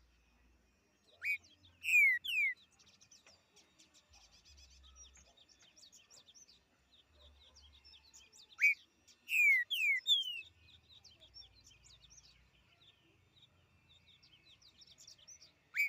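A green-winged saltator (trinca-ferro) sings its loud whistled 'til til fiu' phrase twice: a short note followed by a few falling, slurred whistles. A third phrase begins right at the end. Fainter chirps of other small birds run in the background.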